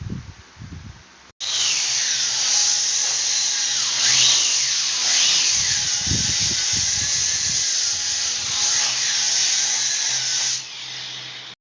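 Handheld electric power tool, of the grinder-polisher kind used on marble, running under load. It starts abruptly about a second in, its whine sagging and rising as the load changes, and it drops away near the end.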